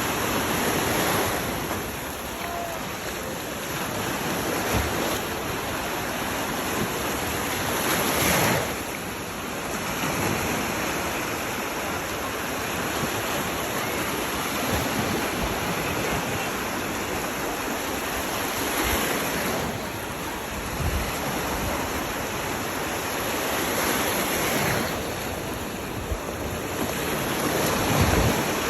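Sea surf breaking and washing on a beach, a steady rush that swells louder every several seconds as waves come in, with wind buffeting the microphone.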